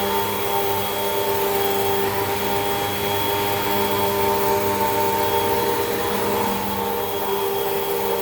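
Hoover WindTunnel 2 Rewind upright vacuum cleaner running steadily on carpet: a constant motor note with several held tones over the rush of air.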